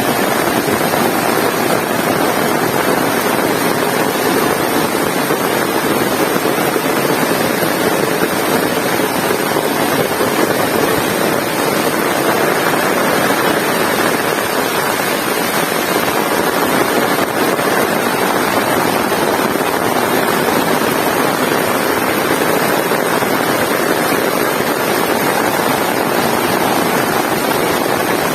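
Heavy rain pouring steadily, a dense unbroken hiss with no letup.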